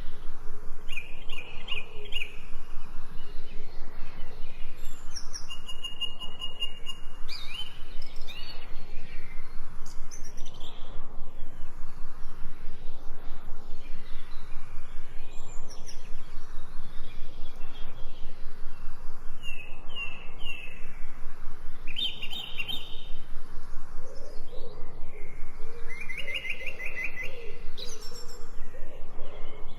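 Songbirds chirping and trilling in short phrases, several times over. In the last few seconds a low cooing call joins in.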